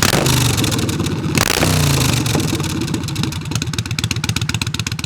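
An engine running and revving, a rapid even pulsing whose pitch rises and falls.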